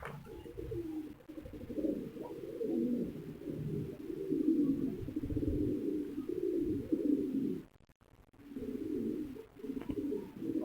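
Pigeons cooing, several low coos repeating and overlapping almost continuously, with a brief lull near the end.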